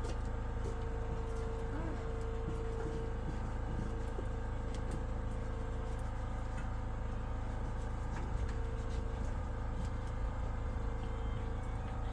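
An engine running steadily with a constant low rumble and a humming tone that fades in and out, with a few scattered clicks and knocks.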